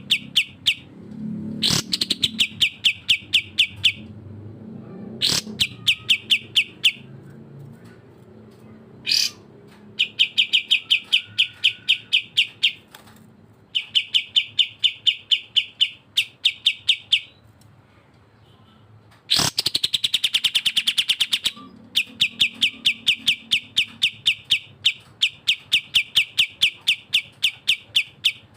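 Songbirds singing in a birdsong training recording of a cucak jenggot (grey-cheeked bulbul) and a kapas tembak: repeated bursts of rapid, evenly paced high notes, about ten a second, each burst lasting a few seconds. A loud falling whistle comes about nineteen seconds in.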